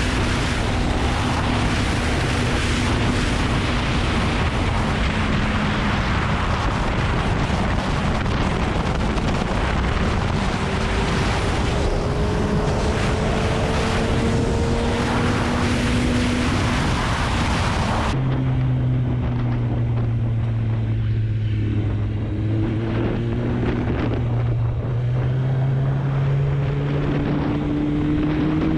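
Kawasaki ZX-9R's inline four-cylinder engine running under way, its note gliding slowly up and down with road speed, under heavy wind noise on the microphone. About 18 seconds in the wind hiss drops away suddenly and the engine note is heard more plainly, climbing slowly near the end.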